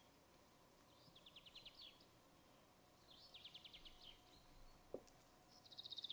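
Faint bird song: three short runs of quick high chirps, each about eight notes fast, coming roughly every second and a half over a faint steady background hum.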